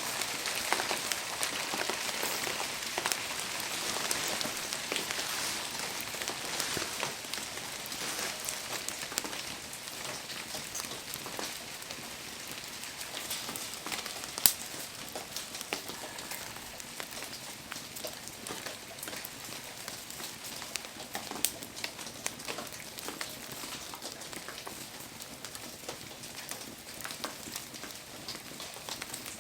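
Steady rain pattering around a wood bonfire, with fine crackling and one sharp pop about halfway through.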